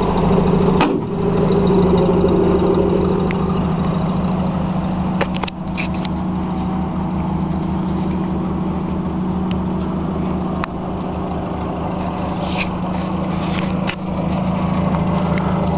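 Land Rover Series III engine idling steadily, with an even low pulsing, while a few short sharp clicks and knocks sound over it.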